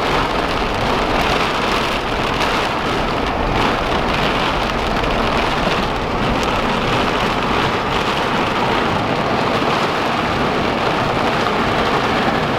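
Heavy rain pouring down steadily in a thunderstorm, an even hiss with no let-up.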